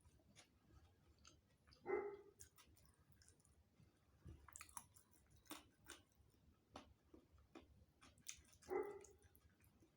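Faint close-up eating sounds: soft mouth and chewing clicks. Two short pitched calls come from the background, about two seconds in and near the end; these are the loudest sounds.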